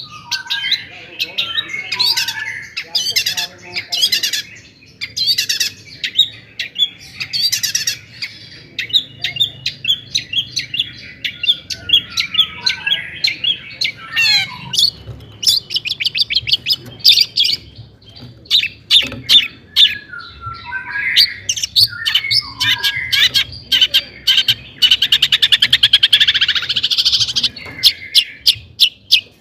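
Long-tailed shrike (cendet) singing a fast, varied song of harsh chattering notes, chirps and mimicked phrases, with a rapid trill near the end.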